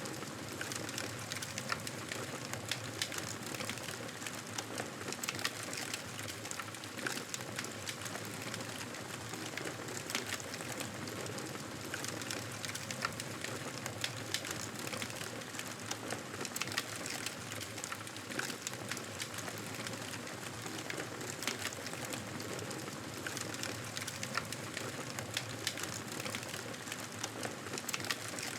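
Wood fire crackling steadily, with a constant hiss and frequent sharp pops and snaps scattered throughout.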